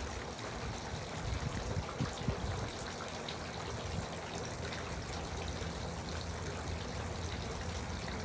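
Garden water fountain splashing and trickling steadily, with a few soft low thumps in the first couple of seconds.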